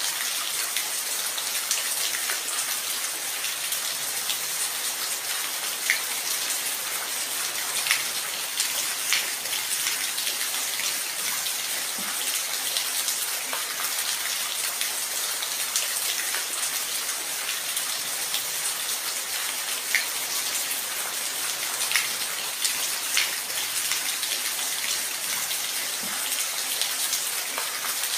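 Steady rain falling, an even hiss of many drops with scattered louder individual drops ticking every second or two.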